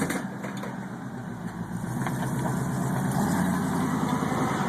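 Monster truck's engine idling with a low pulsing rumble, growing louder about two seconds in.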